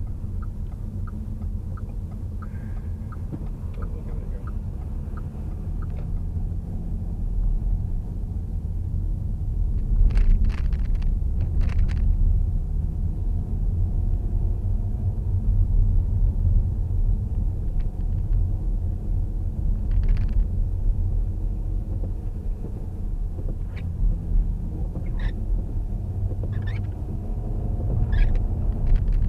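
Low engine and road rumble inside an old car driving uphill, the engine working and growing a little louder after the first few seconds. A run of quick, even ticks sounds for about the first six seconds, and a few short clicks and knocks come later.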